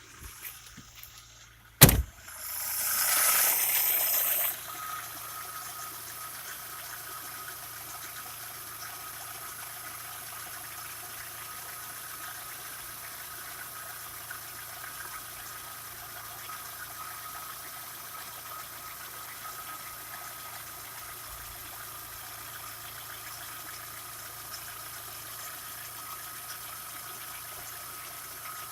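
Audi 80 B4's 2.0-litre four-cylinder petrol engine: a sharp click about two seconds in, then the engine starts and runs loudly for a couple of seconds before dropping suddenly to a steady idle.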